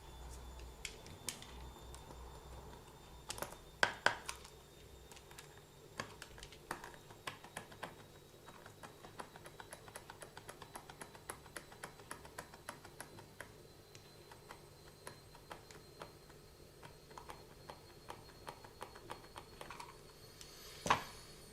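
Small parts of an RC car's differential being handled by hand: a string of light plastic-and-metal clicks, with a quick regular run of clicks about ten seconds in and a couple of louder knocks, one about four seconds in and one near the end.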